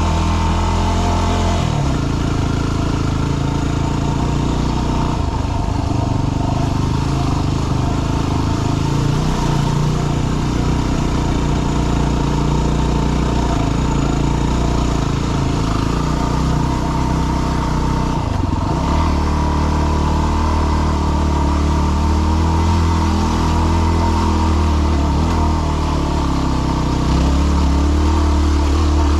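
Yamaha WR250R's single-cylinder four-stroke engine running under load on a rocky trail climb. The engine note changes about two seconds in and again a bit past halfway, as the throttle is worked.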